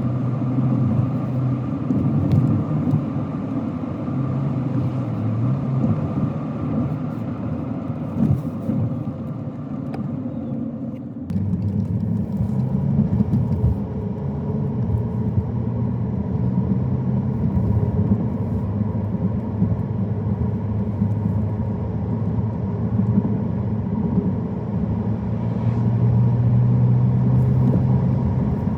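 A car driving: a steady engine hum and tyre noise on the road. About eleven seconds in the sound shifts, the higher road hiss drops back and the engine tone changes.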